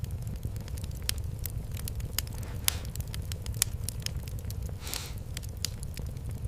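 Wood fire in a fireplace crackling, with irregular sharp pops over a steady low rumble. A short hiss comes about five seconds in.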